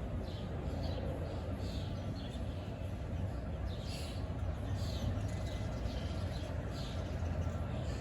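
Birds chirping, short falling notes repeated about once or twice a second, over a steady low rumble.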